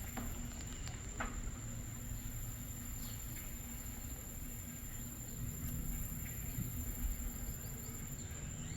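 Tropical outdoor ambience: a steady high-pitched insect drone, over a low uneven rumble, with a few faint short chirps now and then.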